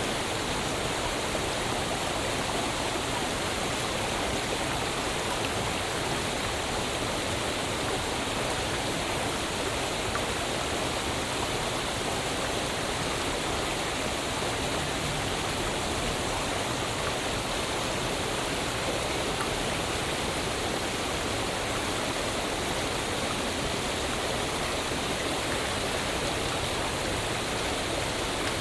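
Waterfall: water falling and rushing in a steady, unbroken roar of white-noise-like sound.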